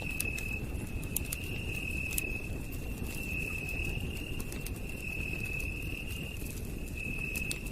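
Campfire crackling with sharp irregular pops over a low rumble of burning wood, while a night insect trills steadily at one high pitch.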